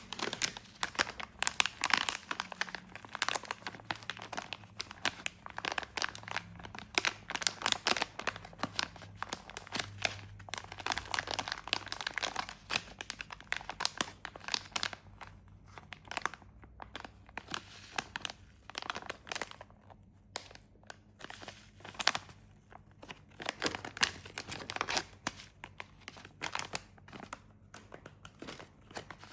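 Snack wrappers being crinkled and torn open by hand: dense, irregular crackling and rustling that thins out briefly around the middle.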